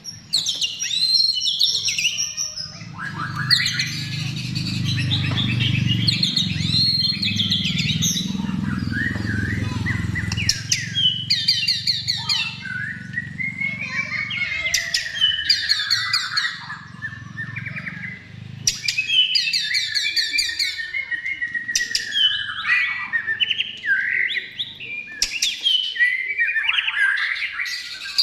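White-rumped shama (murai batu) singing continuously: a varied song of fast trills, whistled glides and chattering phrases. A low rumble runs under the song for about the first two-thirds.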